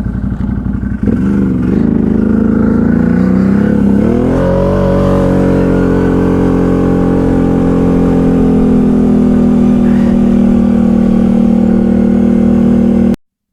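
ATV engine speeding up, its pitch rising over a couple of seconds, then running steadily at a higher speed. The sound cuts off abruptly near the end.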